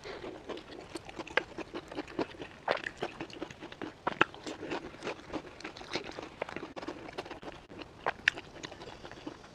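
Close-up crunching and chewing of a crisp, flaky pastry with black sesame filling: a steady run of irregular small crackles, with a few sharper crunches standing out.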